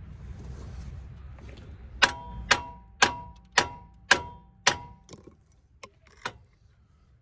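Six sharp metallic strikes about half a second apart, each ringing briefly, followed by a few lighter clicks.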